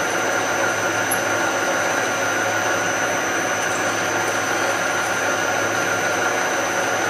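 Shop machine tool running steadily: a constant whirring motor noise with a steady high whine.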